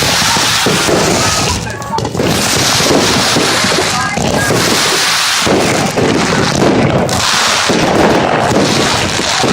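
New Year's Eve fireworks banging and crackling without a break, with people's voices mixed in.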